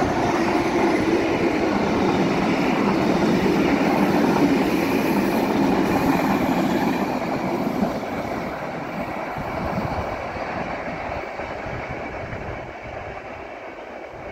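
Electric locomotive-hauled passenger train passing close by on the line and then moving away: a steady rumble of wheels on rail that is loudest for the first several seconds and then slowly fades.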